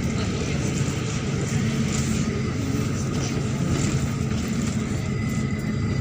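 Neman city bus running, its engine and road noise heard from inside the passenger cabin: a steady low hum with a few light rattles.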